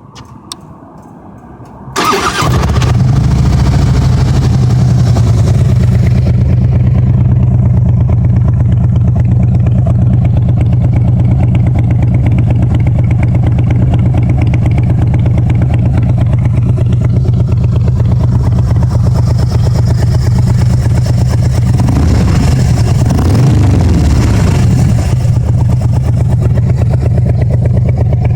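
2013 Harley-Davidson FLHTK's Twin Cam 103 V-twin starting about two seconds in, then idling steadily through aftermarket American Custom slip-on mufflers, with a throaty sound.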